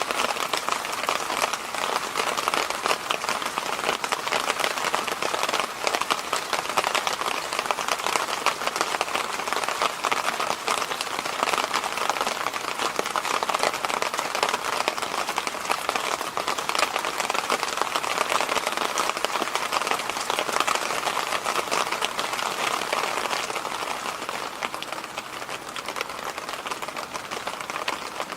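Electric fan running steadily: an even rushing hiss with a fine crackle through it, easing slightly near the end.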